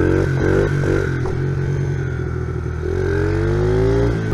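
Honda XR70R pit bike's small single-cylinder four-stroke engine running under the rider, revving up and down in the first second or so, then pulling with a steadily rising pitch near the end as it accelerates.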